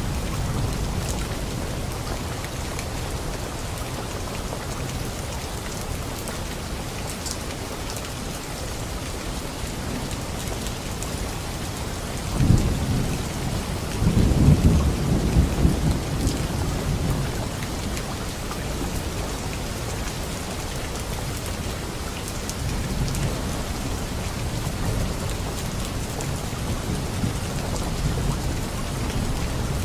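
Steady light rain falling on leaves, with thunder rumbling in the middle: a short roll followed by a longer, louder one lasting a few seconds.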